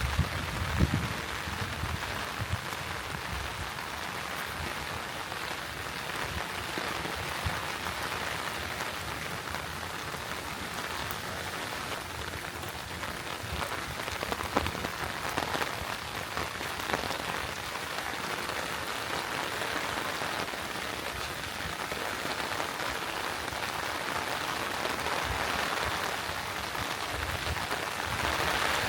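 Steady rain falling, a continuous hiss with scattered louder drop hits. A couple of low thumps come in the first second.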